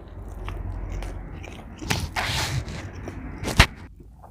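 A person biting into a bacon Quarter Pounder and chewing close to the microphone. A sharp click about two seconds in is followed by a short rustling crunch, and another sharp mouth click comes near the end.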